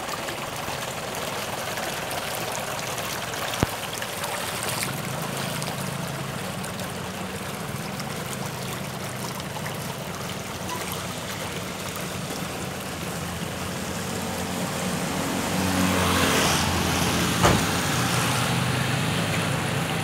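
Steady rush of heavy rain and flowing floodwater, with a low engine hum underneath that grows louder about three-quarters of the way through, and a sharp knock near the end.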